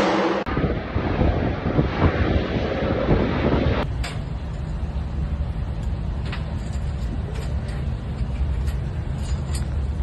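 Heavy engine rumbling low and steady, with the sound changing abruptly about half a second in and again about four seconds in. Light clicks and knocks sound over the rumble in the second half.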